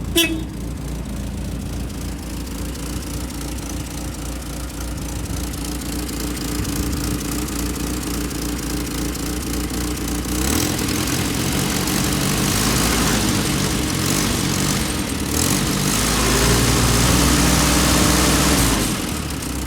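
1946 Willys Jeep's four-cylinder Go-Devil flathead engine running, idling steadily and then revved up about halfway through and higher again later, dropping back to idle near the end. A brief sharp click with a falling squeak is heard at the very start.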